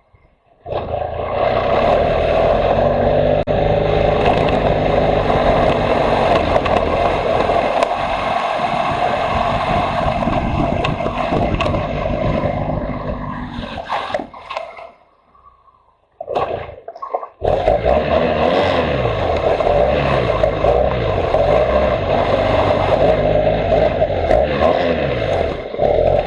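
Motorcycle engine running while riding, the revs rising and falling, with a steady rushing noise underneath. The sound breaks off for about a second around the middle, then picks up again.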